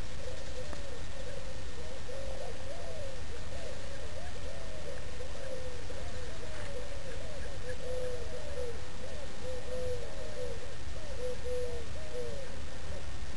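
Birds calling: many short notes that rise and fall, overlapping and repeating several times a second, over a steady low rumble.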